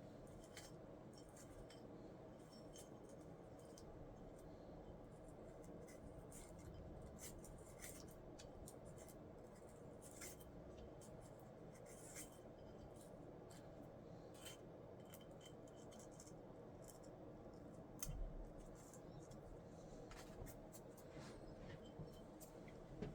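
Faint, scattered light clicks and scrapes of small parts being handled, over a low steady hum, with a soft thump about eighteen seconds in.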